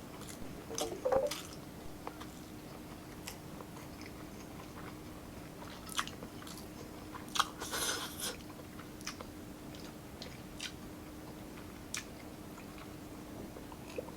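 Close-miked eating: wet chewing with scattered sharp bites and clicks, louder about a second in and again around seven to eight seconds in, over a faint steady hum.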